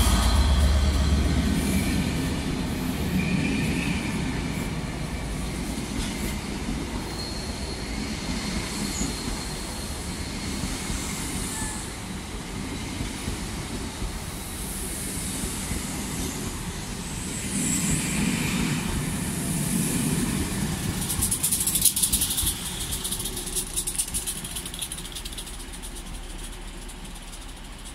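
A passenger train passes on the rails: a Class 67 diesel-electric locomotive's engine fades as it draws away, and the coaches run past with a steady wheel-and-rail rumble and a thin wheel squeal for a few seconds. About twenty seconds in the sound swells again, with a quick run of wheel clicks over the rail joints as the rear Class 67 locomotive passes, then fades away.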